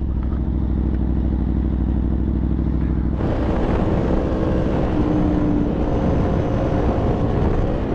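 Aprilia Tuono V4's V4 engine running steadily at low revs, then about three seconds in the throttle opens and it pulls harder, becoming louder with a rush of hiss over the engine note.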